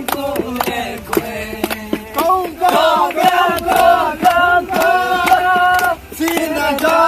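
A group of voices singing a traditional song together in long, gliding notes, over a steady beat of percussion strikes about two or three times a second.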